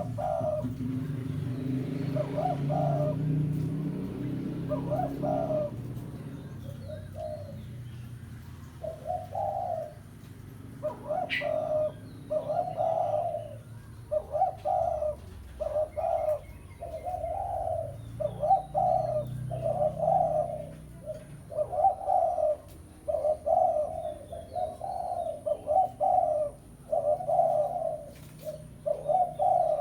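Spotted dove (tekukur) cooing over and over in short, low, repeated coos that come faster and closer together after the first few seconds. This is the call used as a lure to draw wild rival doves.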